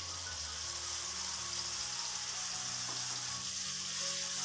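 Ground spice paste sizzling steadily as it fries in hot oil in a metal wok (karahi), just after being tipped in.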